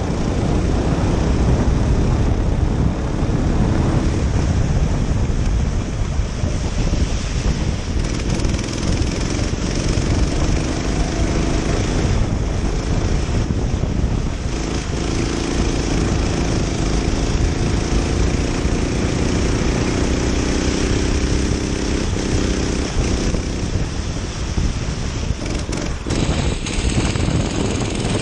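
Racing kart's small engine running hard on a lap, its pitch rising and falling as the driver accelerates and lifts for corners, under heavy low rumble and wind noise on the onboard microphone.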